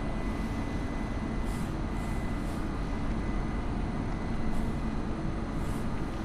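ÖBB electric multiple unit rolling slowly into the platform: a steady low rumble with a thin, constant high whine.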